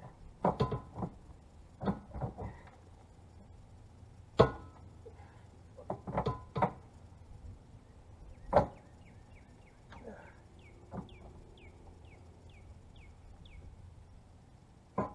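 Irregular sharp metal clanks and knocks from hand tools and car body parts during bodywork on a car's rear end: a handful of separate strikes, the loudest about four seconds in and another near nine seconds.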